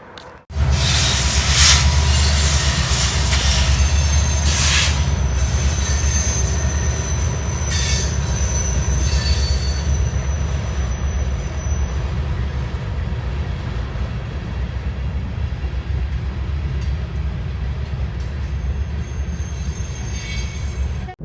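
Train rolling past: a steady heavy low rumble, with thin high-pitched wheel squeals that come in about four seconds in, last several seconds, and return near the end.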